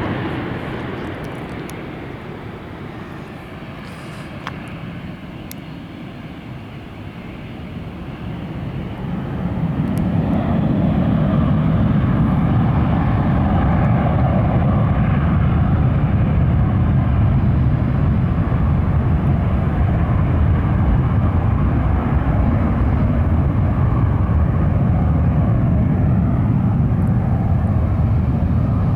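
Jet airliner engines at takeoff thrust. The noise eases off, then swells about nine seconds in and holds loud and steady, typical of a takeoff roll and climb-out.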